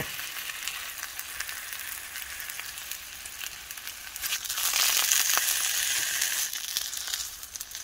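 Seitan sausage sizzling in oil in a cast-iron pan: a steady frying hiss with fine crackles. It grows louder for about two seconds in the middle as the sausage is pushed around the pan with a wooden spoon.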